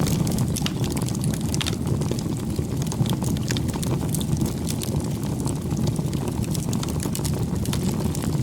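Campfire crackling: a steady low rush from the burning wood with many irregular sharp pops and snaps.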